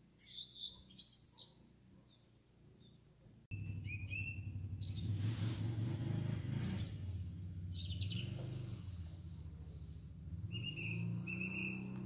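Songbirds chirping and calling, faint at first. About three and a half seconds in the sound cuts to a louder recording where birdsong sits over a steady low hum, with a brief rushing noise soon after.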